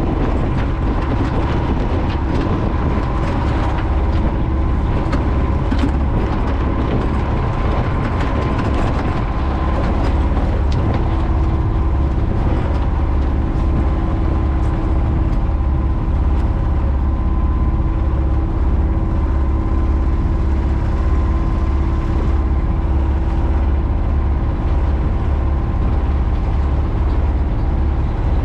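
Sailboat's inboard auxiliary engine running steadily with a low, even drone.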